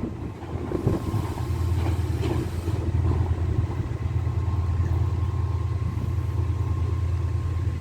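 Class 68 diesel-electric locomotive's engine running with a steady low hum.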